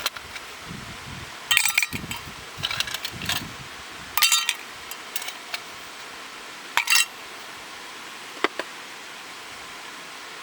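Hard metal pieces clinking and clattering against each other in several short bursts, three of them louder, with softer handling knocks in between.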